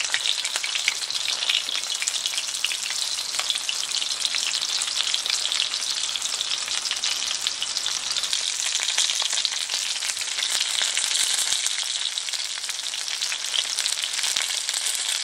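Breaded chicken cutlets shallow-frying in hot oil in a cast iron skillet: a steady sizzle full of fine crackling.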